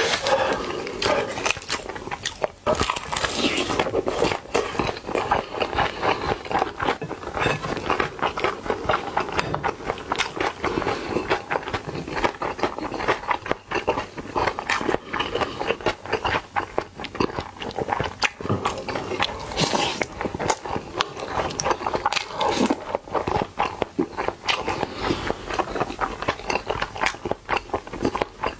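Close-miked eating: a steady run of chewing, biting and lip-smacking on large mouthfuls of Korean mixed rice (bibimbap).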